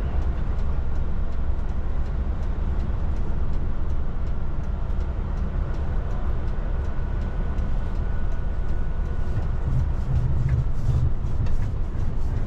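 Steady low rumble of a moving vehicle heard from inside, with faint light ticks and rattles over it.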